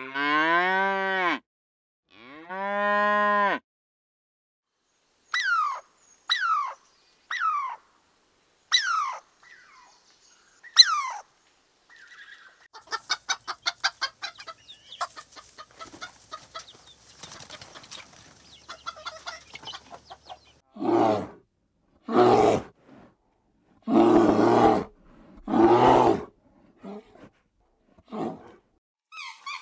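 A run of different farm animal calls: two long mooing calls from cattle at the start, then five short calls that fall steeply in pitch, a stretch of rapid chattering, and four loud harsh calls near the end.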